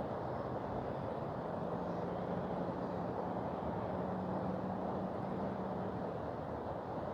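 Mountain river rushing, a steady even wash of water noise. A faint low hum sits under it for a few seconds in the middle.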